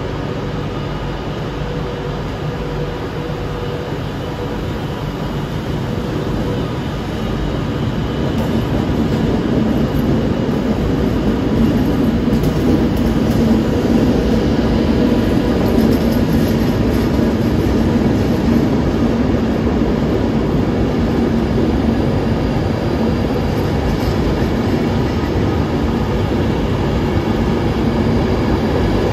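Train running: a steady rumble with a constant hum, growing louder about eight to twelve seconds in and then holding.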